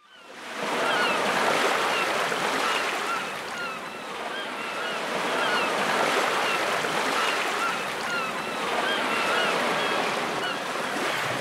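Steady rushing noise like surf, fading in over the first second, with short high chirps repeating over it throughout.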